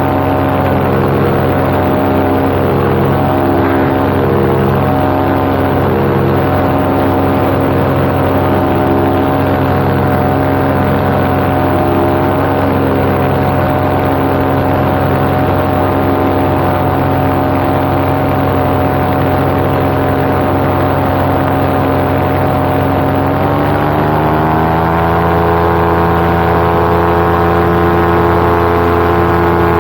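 Paramotor engine and propeller running steadily in flight; about 23 seconds in the engine speeds up, its pitch rising over a couple of seconds and then holding higher.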